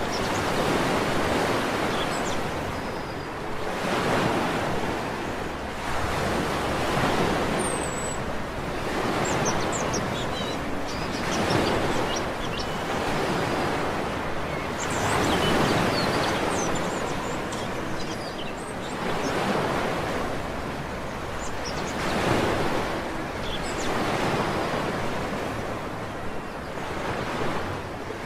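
Sea waves breaking and washing up a beach, a surge every three to four seconds, with brief, faint bird chirps over the surf.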